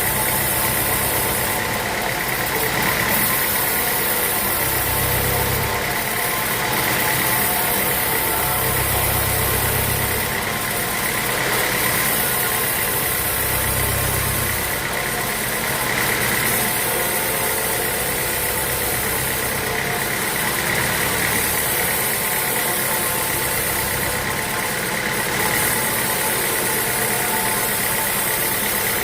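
Sawmill machinery running steadily, a continuous mechanical drone with a steady high whine and a low hum that swells and fades every few seconds.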